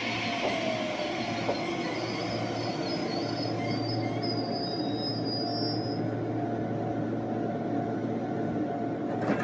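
Meitetsu electric train running on the line: a steady rumble of wheels on rail, with thin, high wheel squeal in the middle. A single sharp click near the end.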